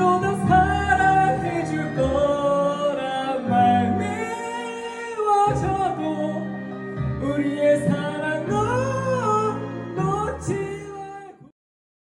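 A voice singing a melody over instrumental accompaniment. It stops abruptly near the end, leaving silence.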